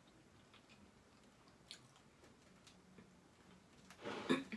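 Faint mouth sounds of someone chewing food with the mouth closed, a few soft clicks, then a short voiced sound near the end.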